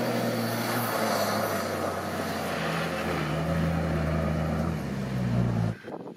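Off-road 4x4 vehicle's engine running, its pitch stepping up and down as the revs change. The engine sound cuts off abruptly near the end, leaving quieter wind noise.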